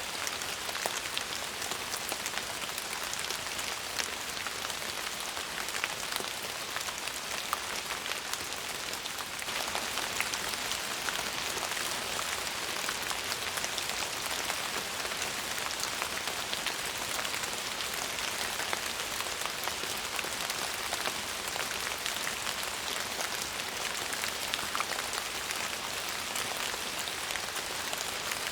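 Steady rain falling, an even hiss with many small drop ticks, growing slightly heavier about a third of the way through.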